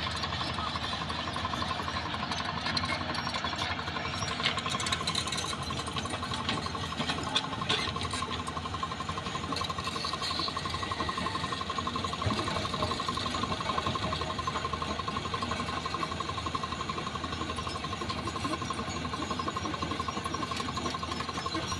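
Heavy diesel engine of road-work machinery running steadily, with a fast, even knocking pulse and a few sharper clanks over it.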